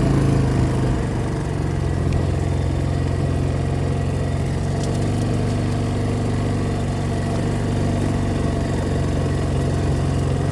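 The engine of an off-road vehicle running steadily at low speed while it is driven, a constant low drone.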